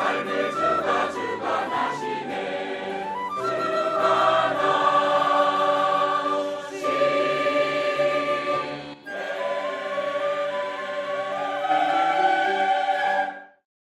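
Church choir singing the closing phrases of a hymn in several parts, with a short break between phrases. It ends on a long held final chord that cuts off sharply near the end.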